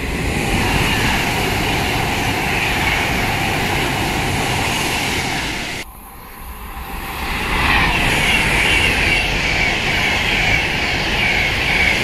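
Loud rumble and wheel noise of a passing train, cutting off suddenly about halfway through. It then builds up again as a long multi-car passenger train runs through the station at speed, with a wavering high whine over the rumble.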